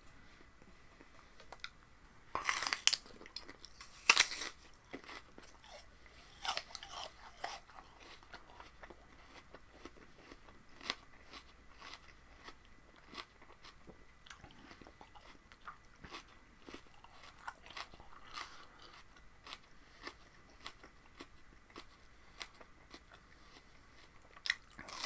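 A person biting into and chewing a crunchy raw fruit or vegetable: two loud crunching bites about two and a half and four seconds in, then steady chewing with many small crunches.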